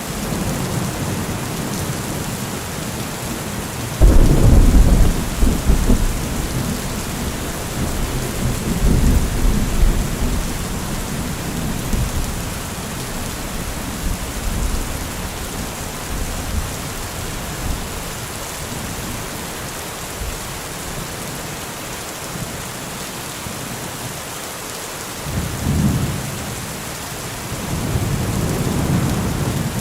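Steady rain with thunder: a loud clap about four seconds in that rumbles on for several seconds, and lighter rolls of thunder near the end.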